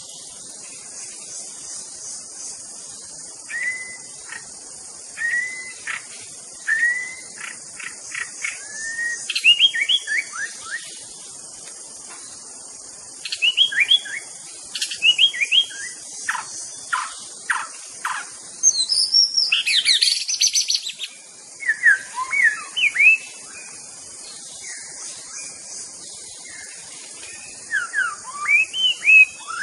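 White-rumped shama (murai batu) singing in bursts of varied, clear whistled phrases with pauses between them, including one louder, higher flurry a little past the middle. A steady high-pitched insect drone runs behind the song.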